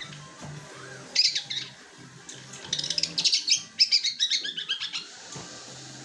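Long-tailed shrike singing a rapid, chattering song filled with mimicked Eurasian tree sparrow chirps: a short burst about a second in, then a longer dense run to about five seconds in. The owner judges this song below the bird's best, blaming too little extra feeding and sunning.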